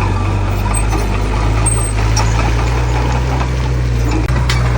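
Heavy construction machine's diesel engine running steadily with a deep, even drone.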